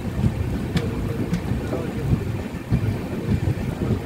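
Passenger train coach rolling slowly out of a station, heard from aboard: a low, uneven rumble, with two faint clicks a little under a second apart about a second in.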